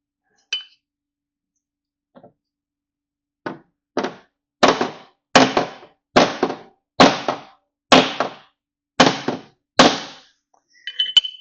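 Small body hammer tapping out a dent in a Chevy pickup's sheet-metal door: about ten sharp, evenly paced metal strikes, roughly one every 0.7 s, the first couple softer, each with a short ring. A few light clicks near the end.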